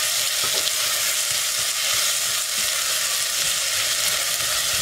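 Chopped onion, garlic and ají panca frying in olive oil in a stainless-steel pot: a steady sizzling hiss while a silicone spoon stirs the mixture, with a few soft knocks of the spoon.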